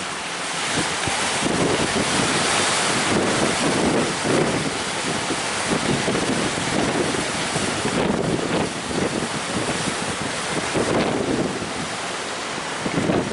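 Strong wind buffeting the microphone in gusts, over the rushing wash of rough sea waves.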